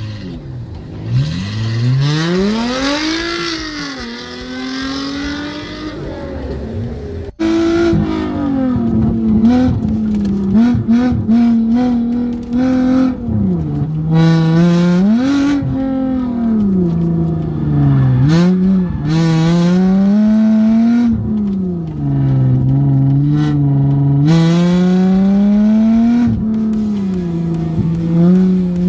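A car engine revving up and pulling away, its pitch climbing and then falling. After an abrupt cut, a Porsche's engine is heard from inside the cabin, running hard, with the revs rising and dropping repeatedly as it accelerates and slows between the cones of an autocross course.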